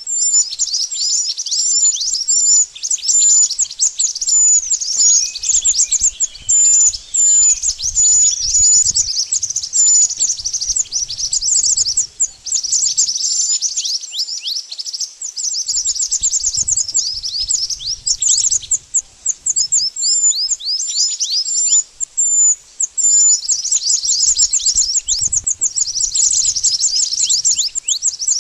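Mantenan bird song: fast runs of high, downward-sweeping chirps mixed with short, sharp high notes, coming in bursts with brief pauses between them.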